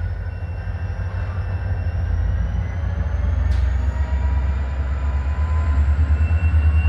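Low, steady rumble of EMD SD40-2 diesel locomotives, 16-cylinder engines, working as they shove railcars through a yard, getting louder toward the end, with faint thin high tones above the rumble.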